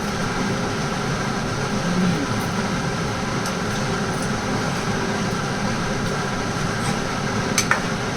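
Steady machine hum and whir with several fixed tones, broken by a single sharp click near the end.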